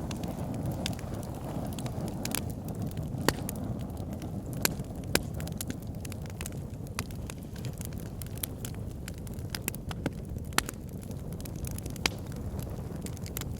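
Fire in a fire pit crackling: sharp pops at irregular intervals, several seconds apart or closer, over a steady low rush of flame.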